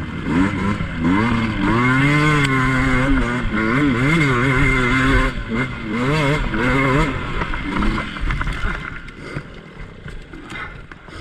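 Two-stroke dirt bike engine revving under varying throttle, its pitch rising and falling repeatedly for several seconds, then dropping to a quieter, rougher running sound for the last few seconds.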